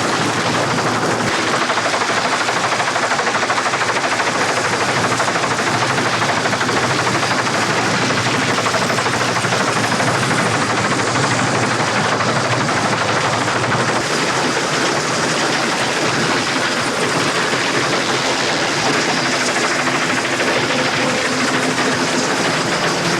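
Loud, steady noise of a fast-moving vehicle, a continuous rushing with a rapid chattering rhythm, unbroken throughout.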